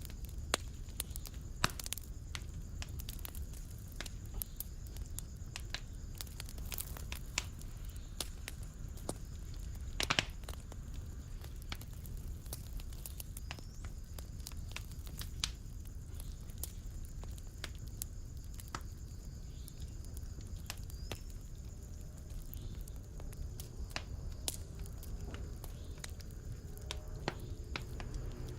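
Wood fire crackling in a fireplace: a steady low rumble of burning, with frequent sharp snaps and pops and one louder pop about ten seconds in.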